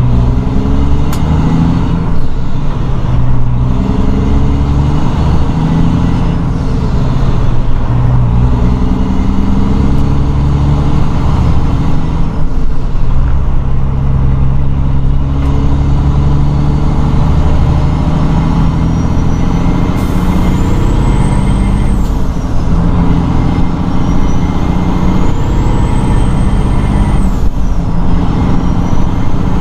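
A Detroit 12.7-litre diesel in a Peterbilt truck pulling through the gears of an 18-speed transmission, its engine note climbing and then stepping down with each shift. From about two-thirds of the way in, a high turbo whistle rises with the revs and drops off sharply at each shift.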